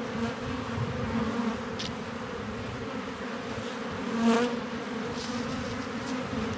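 Honeybees buzzing in a steady hum from an opened hive, with one louder buzz rising and falling about four seconds in.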